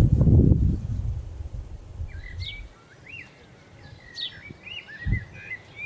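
Wild birds singing, with short chirps and quick whistled glides, starting about two seconds in. Before that, a low rumble at the start fades out, and there is a soft thump near the end.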